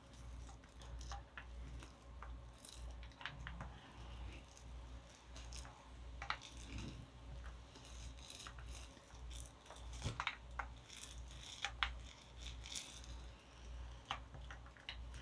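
Wet wood glue being worked over burlap fabric on a styrofoam hull: sticky crackling and scattered small clicks as the coat is spread and pressed down, over a faint low hum.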